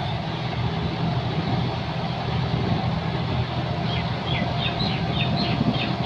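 John Deere 5210 tractor's three-cylinder diesel engine running steadily while working a rotavator through mud. About four seconds in, a run of short, high, rising chirps starts, three or four a second.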